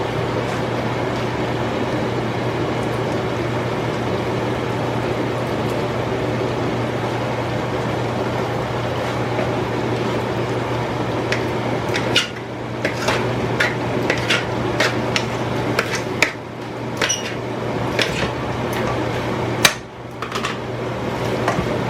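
Kitchen utensils clinking against dishes and a pan: a run of sharp clicks from about eleven seconds in, over a steady hiss with a low hum.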